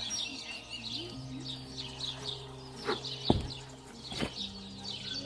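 Small songbirds chirping over and over, with a steady low hum underneath and one sharp knock a little past the middle.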